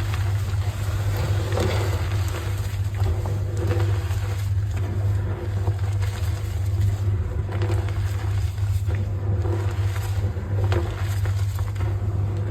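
Gym chalk being crushed, crumbling in irregular soft crunches, over a steady low hum.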